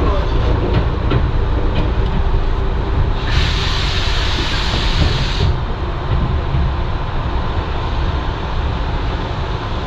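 Train running, a steady low rumble, with a burst of air hiss about three seconds in that lasts about two seconds.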